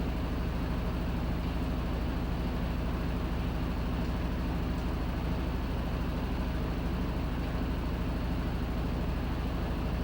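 Panasonic NA-FA100H9 top-loading washing machine running steadily, its motor humming low under an even whir of the tub, with no stop-start rhythm.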